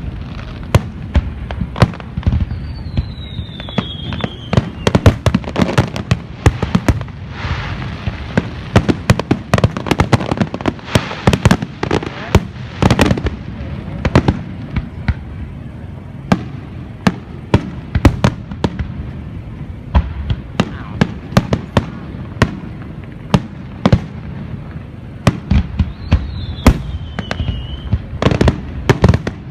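Fireworks going off: a dense, continuous run of sharp bangs and crackles, with a high whistle sliding down in pitch twice, a few seconds in and near the end.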